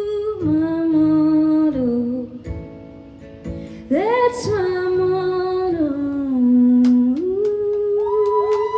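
A woman's voice singing long, held wordless notes over guitar, with the melody stepping down and back up, closing out the song live. The music drops quieter briefly a little past halfway, then swells again.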